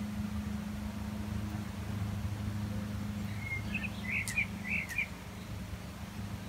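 A small bird chirps a few short notes about four seconds in, with two sharp clicks among them, over a steady low hum.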